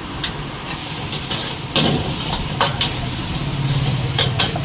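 Schezwan chicken noodles sizzling as they are stir-fried in a pan. A spatula knocks and scrapes against the pan about seven times.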